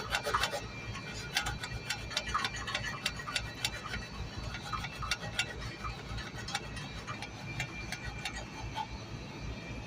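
Irregular light clicks and taps, several a second and busiest in the first few seconds, over a steady low hum with faint steady high tones.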